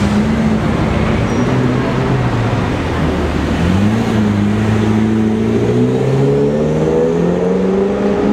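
Bugatti Veyron Grand Sport's quad-turbo W16 engine moving off at low speed in city traffic. A steady low note holds for about three seconds, then the pitch climbs slowly as it accelerates gently, and falls away right at the end.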